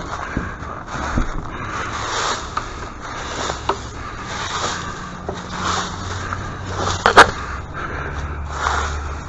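Scraping and handling sounds with scattered knocks and one sharp, loud strike about seven seconds in, over an intermittent low rumble.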